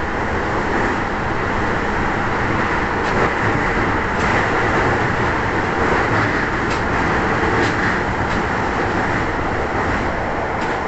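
Toei 10-300 series subway train running steadily between stations, heard from inside the car: a continuous rumble of wheels on rail, with a handful of light clicks along the way.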